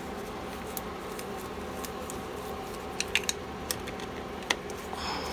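Several sharp clicks and taps of small parts being handled, clustered from about three seconds in, over a steady background hum.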